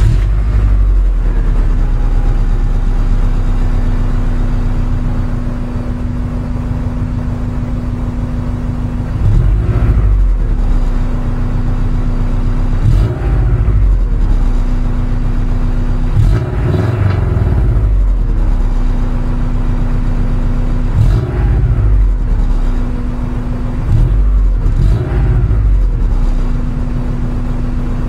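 1998 Subaru Legacy GT's 2.5-litre flat-four boxer engine, breathing through a custom exhaust (Borla-style mufflers, high-flow cat, STI mid-pipe, resonator and axle-back). It idles steadily, then is revved in about eight short throttle blips. The first blip comes about nine seconds in, and they come every one to four seconds after that.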